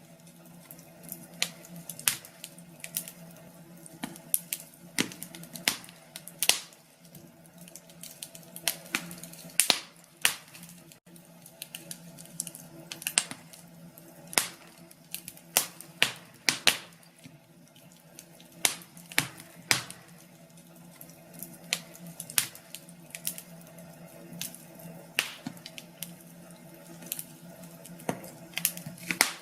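Wood fire crackling in a fireplace: irregular sharp pops and snaps, some loud and some faint, over a faint steady hum.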